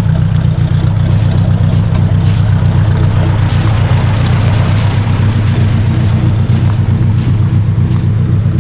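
1953 Ford Jubilee tractor's four-cylinder overhead-valve gasoline engine running steadily, with faint scattered clicks.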